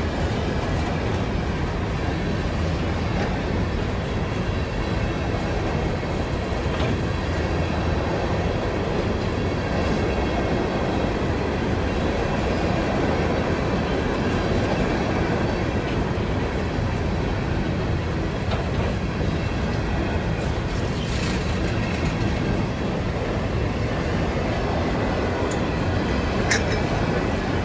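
Empty CSX open-top hopper cars rolling past: a steady rumble and clatter of steel wheels on the rails. A brief, sharp, high-pitched metallic sound comes near the end.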